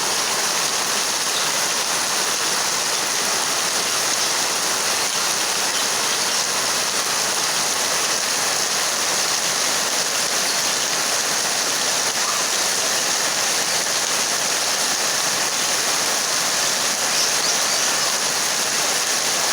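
Rain falling steadily, a dense, even hiss with no letup.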